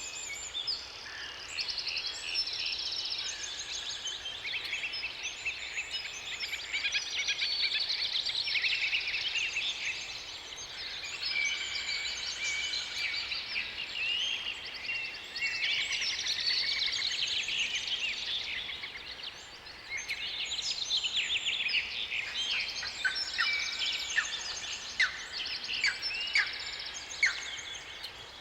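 Several songbirds singing at once in a dense chorus of overlapping trills, chirps and quick whistled notes. Near the end a few sharp, quickly falling notes stand out.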